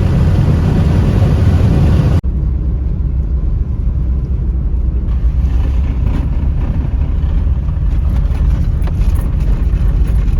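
Steady low rumble of a vehicle travelling, with road or engine noise and wind. There is a hard cut about two seconds in to another clip with a similar rumble.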